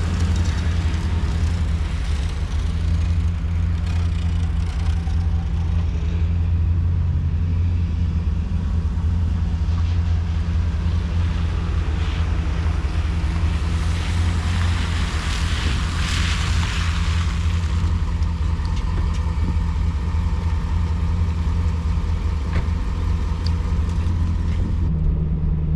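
Ford Super Duty pickup truck running steadily on the road, a low, even engine and exhaust drone through a muffler fitted to what had been a straight-piped exhaust.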